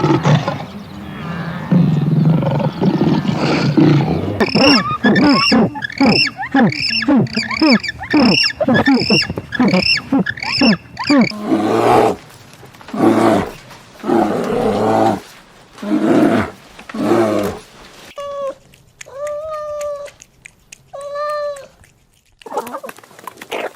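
A run of different animal calls, among them a big cat giving a series of long pulsed roars, each about a second long.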